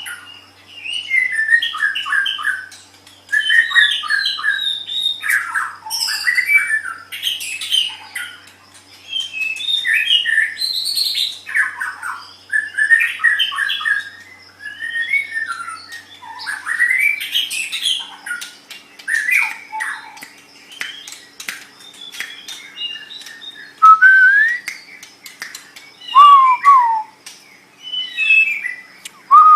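White-rumped shama (murai batu) singing a long, varied song of quick whistles, chirps and harsh notes in short phrases, with loud, clear descending whistled notes near the end.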